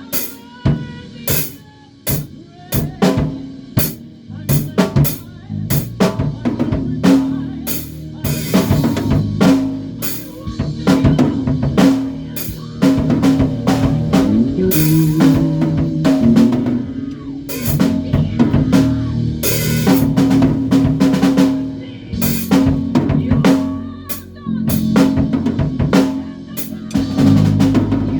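A band playing an instrumental passage: a drum kit with kick, snare and rimshots keeps a busy beat under sustained low bass notes.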